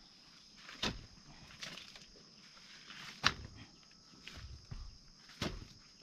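Five dull thuds at uneven intervals of one to two seconds, the third the loudest, over a steady high-pitched drone of insects.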